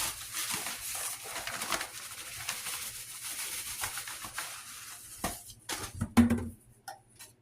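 A 6-inch drywall knife stirring and scraping 5-minute setting joint compound mixed with water in a mud pan: continuous wet scraping with small clicks of the blade against the pan, and a few sharper knocks about five to six seconds in.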